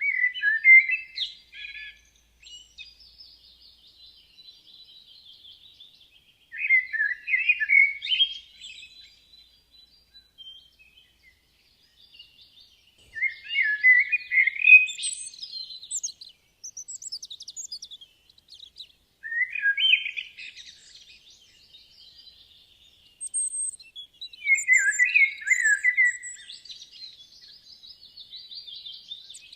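Woodland songbirds singing: one bird delivers five short, loud song phrases about every six seconds, with fainter, higher twittering from other birds in between.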